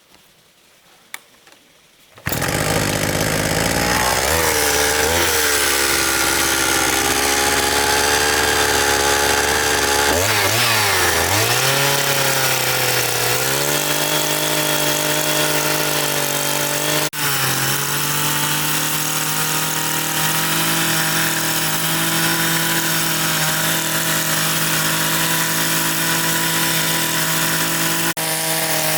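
A motor-driven power tool running steadily. It starts abruptly about two seconds in, and its pitch drops and climbs back around the middle.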